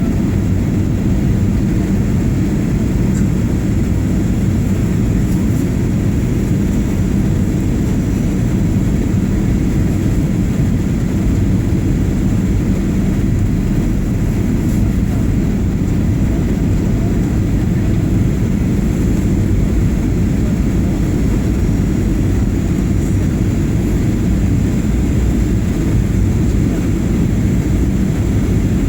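Boeing 737-800 cabin noise in flight on the approach: a steady low rumble of the CFM56 engines and airflow around the fuselage, even throughout.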